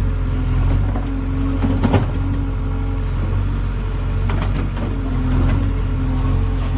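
JCB 3DX backhoe loader's diesel engine running steadily under work, its note rising and easing a little, with a few short metallic knocks about two seconds in and again near the middle.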